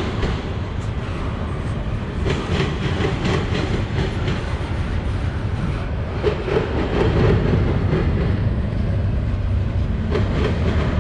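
Double-stack intermodal container train's well cars rolling past: a steady rumble with wheels clicking over the rail joints.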